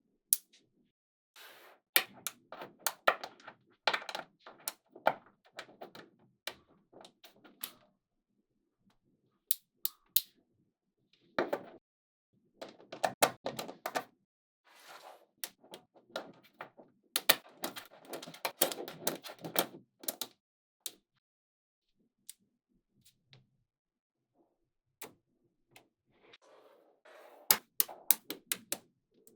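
Small magnetic balls clicking and snapping together, with clusters of fast rattling clatter as they are pushed and rolled against each other. This comes in irregular bursts with quieter gaps between them.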